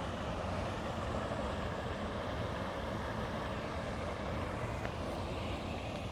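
Steady traffic noise, an even wash of vehicles passing over or near a large bridge.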